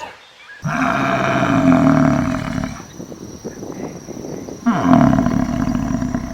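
An animal giving two long, low calls, the second starting about two seconds after the first ends.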